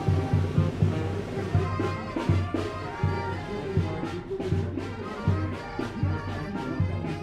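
Tamborazo band playing: brass horns carry the tune over steady, regular beats of the tambora bass drum.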